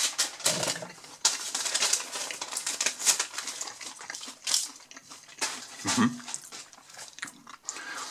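Chewing a mouthful of crispy deep-fried onion ring: an irregular run of crunches and crackles.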